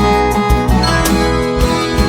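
Viola caipira, the ten-string Brazilian folk guitar, playing an instrumental passage of a moda de viola with sharply plucked notes and ringing bass strings.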